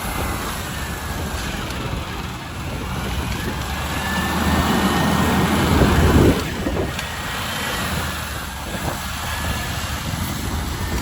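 Garbage truck engine running, rising to a peak about six seconds in and then dropping off suddenly.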